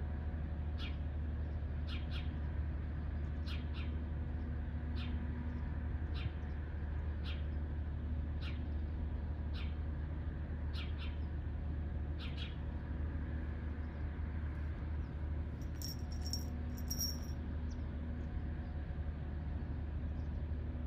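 A bird gives a short, high call over and over, about once a second, stopping about twelve seconds in; a few brief, very high notes follow a few seconds later. Under it runs a steady low mechanical hum, the loudest sound throughout.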